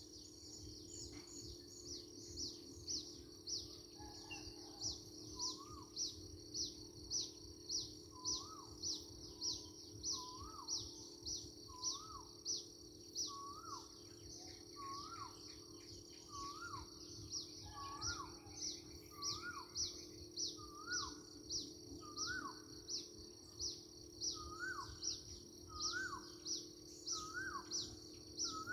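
Birds calling repeatedly: a short high call about twice a second, joined about five seconds in by a lower rising note about once a second, over a steady high-pitched hum.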